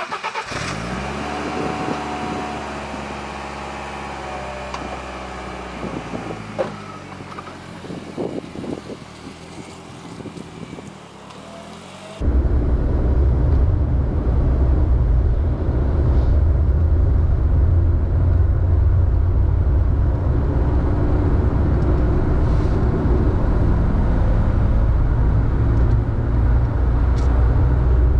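BMW E30 318is's 1.8-litre twin-cam four-cylinder engine, its note dipping and settling in the first second and then holding fairly steady. About twelve seconds in, the sound changes abruptly to a much louder, steady low rumble of the car being driven.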